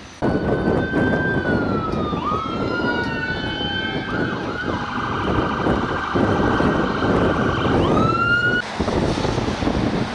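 Emergency vehicle sirens wailing, more than one at once, their pitch sweeping down and up over loud rumbling noise. The sirens cut off abruptly near the end.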